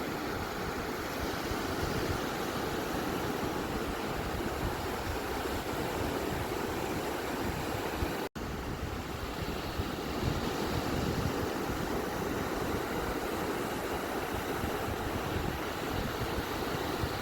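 Steady, continuous wash of ocean surf on a beach, with one momentary dropout about eight seconds in.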